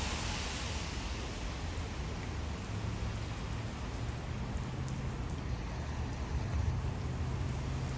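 Steady rain falling, with faint drop ticks and a low rumble underneath.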